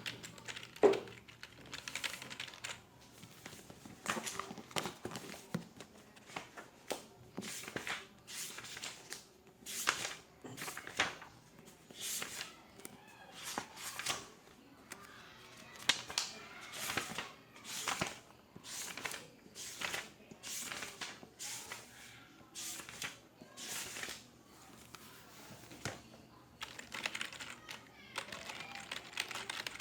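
Typing on a computer keyboard: irregular keystrokes a few per second with short pauses, and a single louder knock about a second in.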